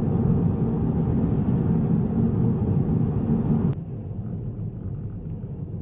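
Car on the road: steady low engine and tyre rumble, dropping suddenly to a quieter rumble a little under four seconds in.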